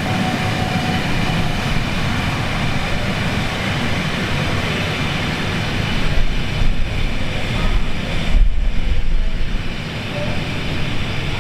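LNER A4 Pacific steam locomotive and its train rolling slowly along the platform. The rolling-train noise is steady, with a heavier low rumble about eight to nine seconds in.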